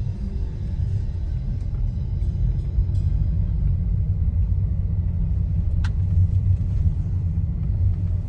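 A car driving: a steady low rumble of engine and road noise, with a short sharp click about six seconds in.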